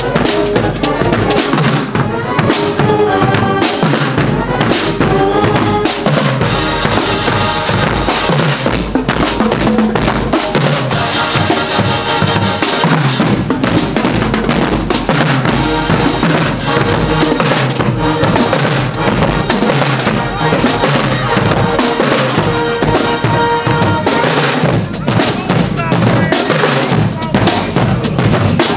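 Marching band drumline playing a fast, steady beat on bass and snare drums, with held band notes sounding over it at times.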